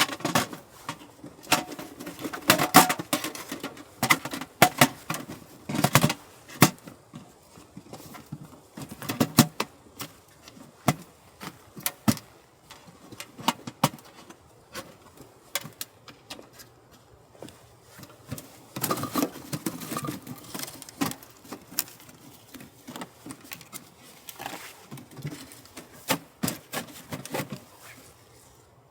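Irregular clinks, knocks and rustles of camping gear being handled by hand, in busy clusters with quieter gaps between.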